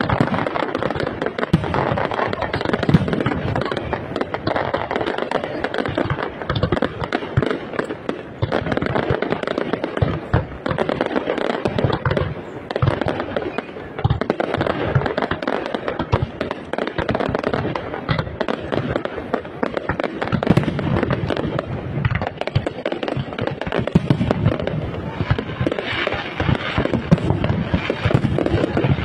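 Fireworks display with a dense, unbroken barrage of shell bursts: rapid bangs and crackling one after another.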